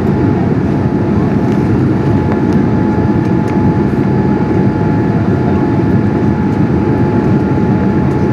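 Steady roar of a Boeing 787's engines and airflow heard inside the passenger cabin in flight, a deep even rumble with a thin steady whine above it.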